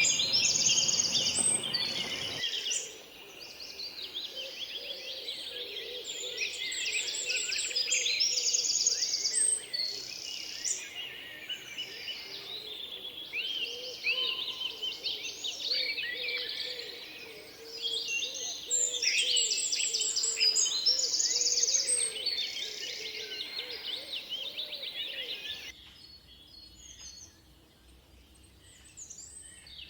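A dense chorus of tropical birds chirping, whistling and trilling together, with many overlapping calls and quick rapid trills. The chorus changes abruptly a couple of seconds in, and near the end it turns quieter, with only scattered calls.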